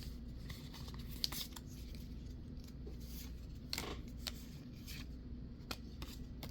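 Faint handling of a Pokémon trading card booster pack and its cards: soft rubbing with a few scattered light clicks, over a low steady hum.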